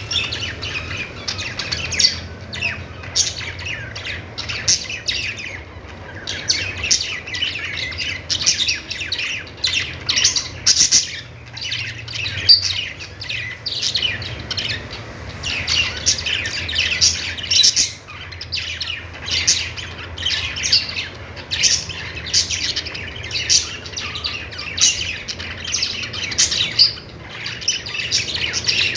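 Budgerigars chattering: a busy, continuous stream of short chirps, squawks and warbles, over a faint steady low hum.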